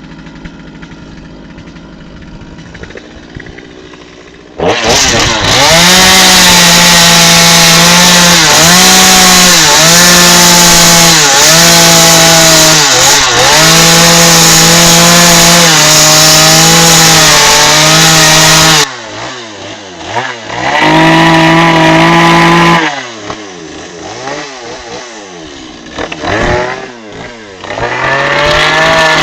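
Gas chainsaw cutting wood: after a few seconds of quieter running it goes to full throttle for about fourteen seconds, its pitch dipping again and again as the chain bites into the wood. It then drops back to idle, with one short rev midway, and revs up again near the end.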